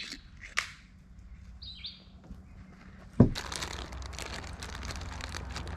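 Birds chirping with short, high calls. About three seconds in there is a sudden sharp knock, followed by a steady rushing noise dotted with small crackles.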